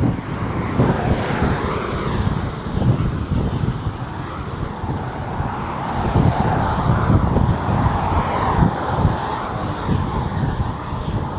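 Road traffic passing by, a steady wash of vehicle and tyre noise that swells and fades, with wind buffeting the microphone.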